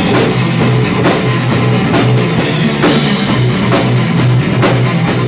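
Live rock band playing an instrumental passage between vocal lines, with drum kit hits, electric guitar and bass.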